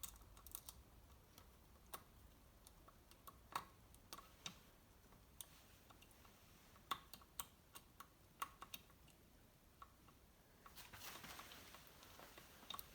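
Faint, scattered light clicks and taps of metal engine parts and hand tools being handled, with a brief soft rustle about eleven seconds in.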